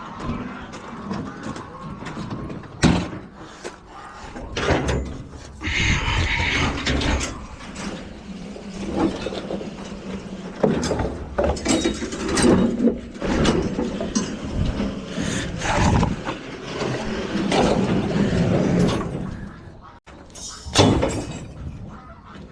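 Irregular knocks, clanks and scraping of junk and debris being handled and moved, with a longer noisy stretch about six seconds in.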